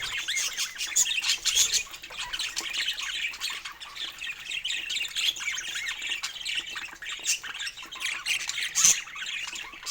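Pet budgerigars chattering continuously, a busy warble of quick chirps and scratchy squawks, with a sharp click near the end.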